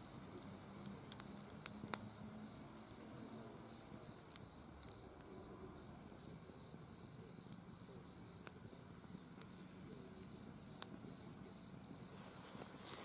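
Campfire crackling quietly, with scattered sharp pops from the burning wood, a few close together about two seconds in.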